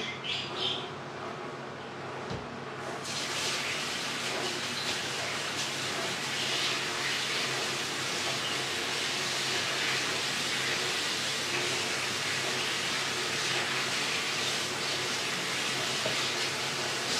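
Flour- and cornstarch-coated chicken pieces frying in hot oil in a pan, a steady sizzle that sets in sharply about three seconds in as pieces go into the oil.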